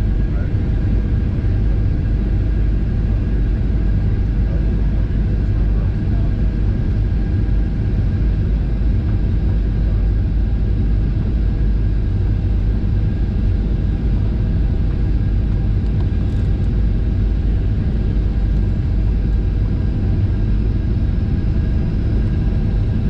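Cabin noise inside a Ryanair Boeing 737-800 on its descent: the steady low rumble of the engines and the air rushing past the fuselage, with a faint steady whine above it.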